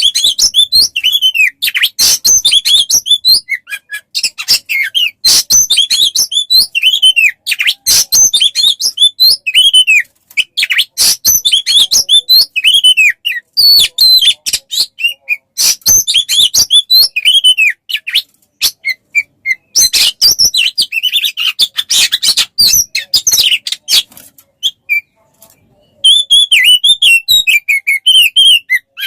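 Songbird song in a rapid, continuous stream of high chirps, whistled trills and sharp clicking notes, with brief pauses about ten seconds in and again near the end. It is a masteran, a recorded song track played to teach an Oriental magpie-robin to sing.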